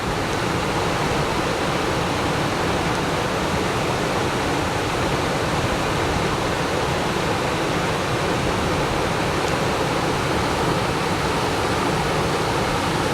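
Heavy monsoon downpour and rushing floodwater making one steady, even rush of water noise that does not change.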